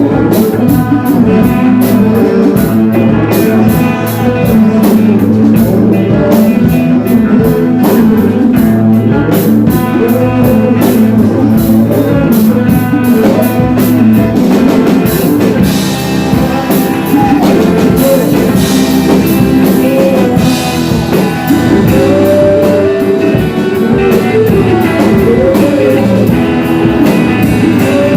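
Loud rock music: guitar and drum kit playing, with a wavering melody line above the beat.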